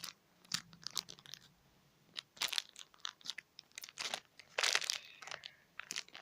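Plastic packaging crinkling in short, irregular rustles as a squishy toy in its wrapper is handled, busiest about four and a half seconds in.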